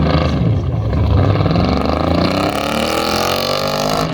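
Pro touring truck's engine under hard acceleration on an autocross course, its pitch climbing steadily through the last two seconds, then dropping sharply at the very end.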